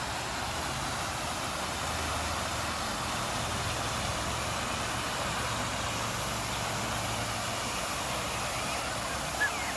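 A motor vehicle's engine running, a low hum that swells through the middle and fades near the end, over a steady rushing background noise.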